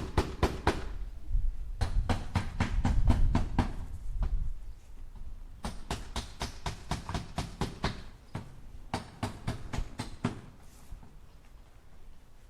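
Hammer driving nails into wood in quick runs of blows, about four or five a second. There are four runs with short pauses between them, and the last ones are fainter.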